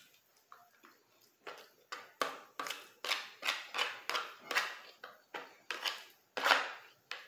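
Close-miked chewing of a mouthful of spaghetti: wet, regular mouth sounds about three a second, growing louder from about a second and a half in.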